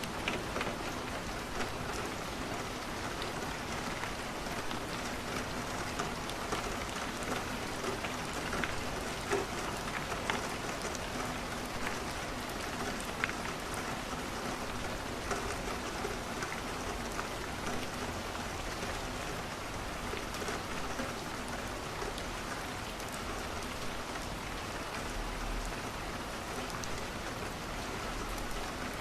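Steady rain falling and pattering on a window, with scattered small sharp ticks.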